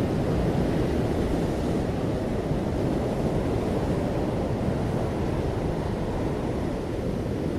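Ocean surf washing onto the shore: a steady, low rush of waves with no distinct single crashes.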